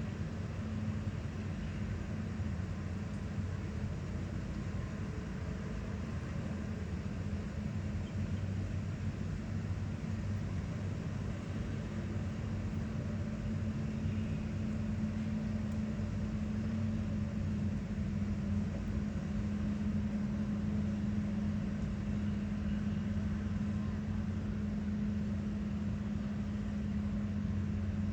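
Construction machinery engine running steadily with a constant low hum.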